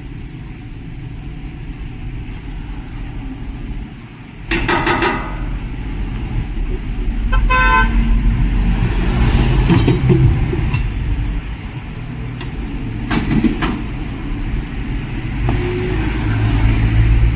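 Street traffic: motor vehicles running past with a low rumble that swells twice, and a car horn sounding twice, about four and a half and seven and a half seconds in, the second a quick stuttering toot.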